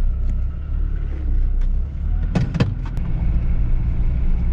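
Vehicle engine running steadily with a low rumble, with a brief clatter of a few sharp knocks about halfway through.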